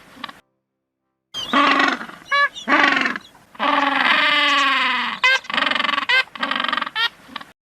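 An animal calling repeatedly: a series of short pitched cries and one long falling call, with brief warbling high notes among them.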